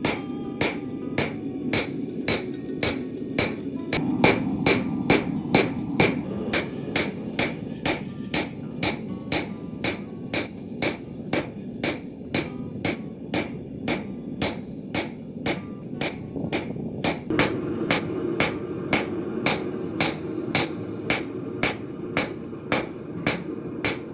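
Steel hammer striking steel on an anvil in a steady forging rhythm, about two blows a second, each ringing briefly. A steady low rush runs underneath.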